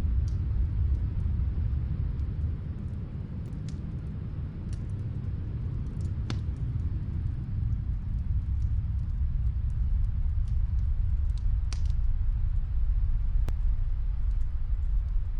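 Snowstorm wind as a steady low rumble that eases a little a few seconds in, then builds again. Faint, scattered crackles and pops of a wood fire in another room sound over it.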